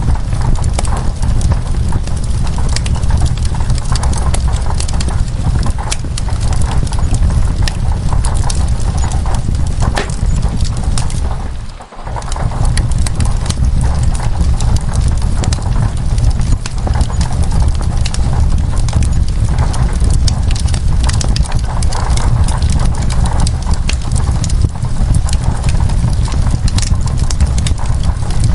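Wood fire crackling in a fireplace, with dense irregular pops over a steady low rumble, mixed with rain on window glass. About twelve seconds in, the sound dips briefly almost to nothing, then returns.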